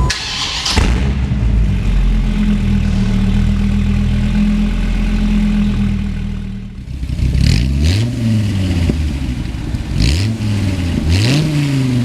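2003 Dodge Viper SRT-10's 8.3-litre V10 running steadily, then revved three times, the pitch rising and falling with each blip.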